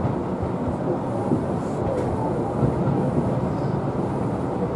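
Running noise of a Tobu Utsunomiya Line local train heard from inside, near the front window: a steady rumble of wheels on the rails.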